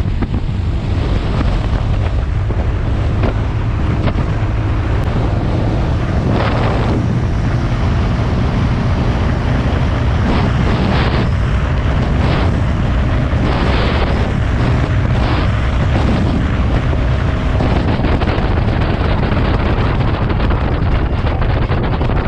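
Heavy wind buffeting the microphone on a moving Bajaj NS160 motorcycle, over a steady low rumble of engine and road. Several short, louder rushes come in the middle.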